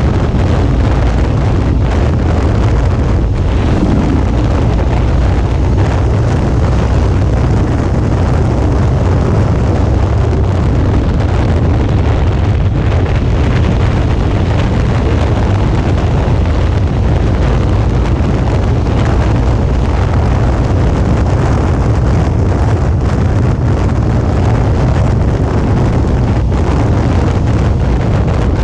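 Wind buffeting the microphone of a motorcycle-mounted action camera while riding, with the Suzuki V-Strom 650's 645 cc V-twin running steadily underneath. The noise is loud and even, heaviest in the low end, with no clear change.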